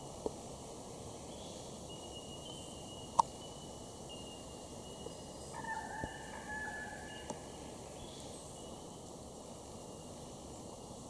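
Quiet rainforest background with a faint steady hiss and a few sharp clicks, and a short bird call about six seconds in, two pitches with a slight downward glide.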